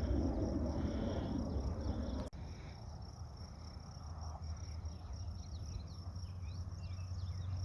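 Crickets trilling steadily in a high pitch, over a low rumble that is stronger in the first couple of seconds. Faint short chirps come in during the second half.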